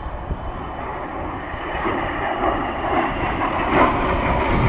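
Jet aircraft engine noise, a rushing sound with a faint whine that grows steadily louder as the jet approaches.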